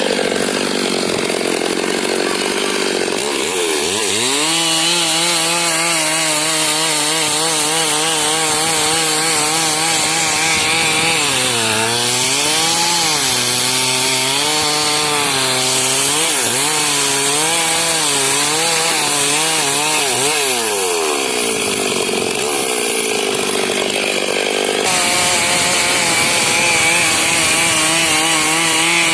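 Stihl MS 382 two-stroke chainsaw running at high revs while cutting timber into lumber. Its engine pitch climbs about four seconds in, wavers up and down for a few seconds in the middle of the cut, drops off about twenty seconds in, then climbs again near the end.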